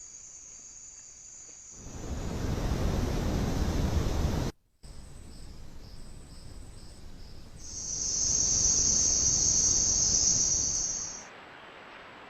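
Forest insects calling: a high, pulsing chirp, then a loud, steady, high-pitched insect buzz lasting about three and a half seconds that stops abruptly. Before that, a couple of seconds of rushing broad noise ends in a sudden cut.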